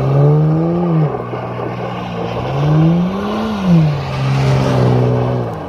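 Holden VZ Commodore's 3.6-litre V6 revving hard as the car skids in circles and spins its wheels on loose dirt. The engine note climbs and drops back twice, then holds high before easing off near the end.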